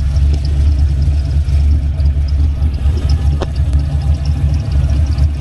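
6.0-litre V8 in a 1979 Buick Regal idling steadily after a rear main seal replacement, with a faint, rapid, even ticking over the idle and a single click about three and a half seconds in.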